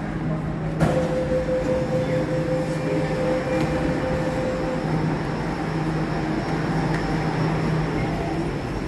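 Jakarta MRT train running, heard from inside the car: a steady rumble and rail noise that grows brighter and louder about a second in, with a steady whine lasting until about five seconds in.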